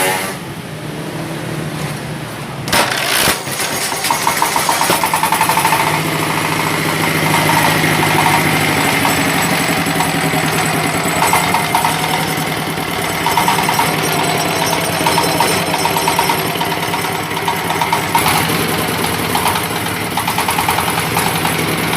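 Small diesel engine running after a recoil start, with a steady knocking beat, turning a coupled plastic shredder. Two sharp knocks come about three seconds in, and after that the running gets louder and more pulsing.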